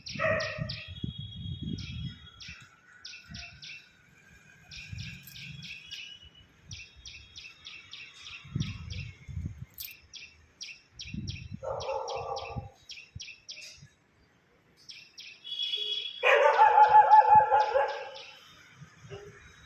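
Small birds chirping in quick series of short, high notes, several per second, with pauses between bursts. A lower, louder call breaks in briefly about twelve seconds in and again, loudest, for nearly two seconds near the end.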